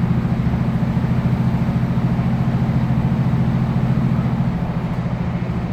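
Class 156 diesel multiple unit's Cummins engine working hard, a steady pulsing drone with road noise over it, easing off slightly about four and a half seconds in.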